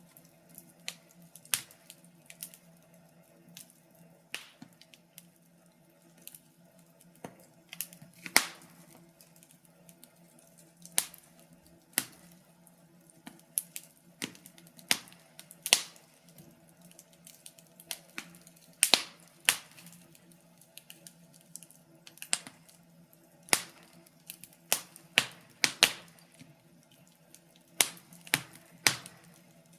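Wood fire crackling: irregular sharp pops and snaps, some loud and some faint, scattered unevenly, over a faint steady low hum.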